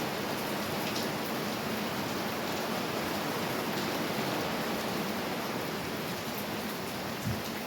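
Steady rain falling, an even hiss with faint scattered drop ticks, and a short soft bump near the end.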